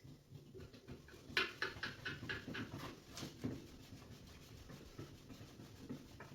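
A quick run of light, sharp clicks, about six a second for under two seconds, then quieter scattered knocks and rustling, as from hands and tools working on a washing machine.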